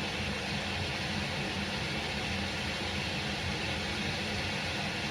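Red wine and cooking juices simmering in a Dutch oven as the wine reduces: a steady, even hiss of bubbling.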